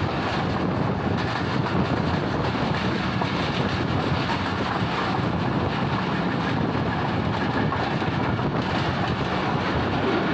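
Passenger train carriage running at speed, heard from its open door: a steady, even rumble of wheels on the track.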